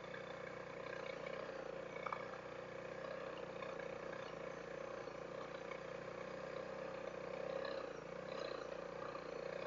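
Honda CRF300L's single-cylinder engine running steadily while riding slowly on a dirt trail, heard from a helmet-mounted camera. There is a small click about two seconds in and a slight rise in the engine note around seven and a half seconds.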